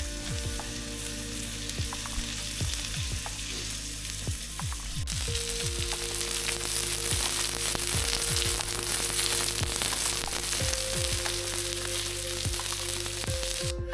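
Lamb chops sizzling and frying in a hot pan, a steady hiss of spitting fat.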